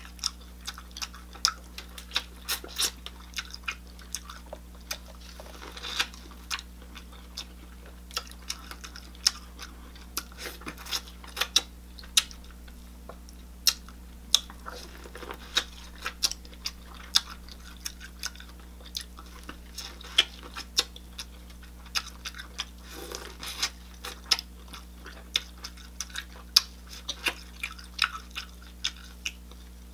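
Close-miked chewing and biting on a seasoned ear of corn on the cob, with many sharp, irregular wet mouth clicks and smacks.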